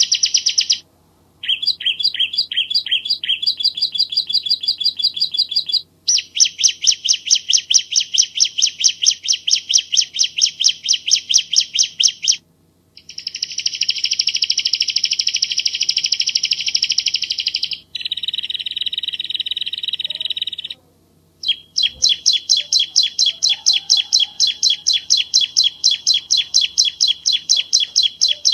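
Bar-winged prinia (Javan ciblek) singing: long, rapid trills of evenly repeated high chirps, in phrases several seconds long separated by brief silences.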